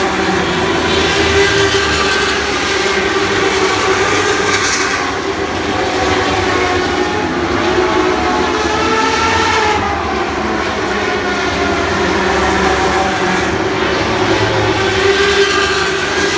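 A pack of Lightning Sprint cars with motorcycle engines racing on a dirt oval, several engines running at once at high revs with their pitches rising and falling as they pass through the turns.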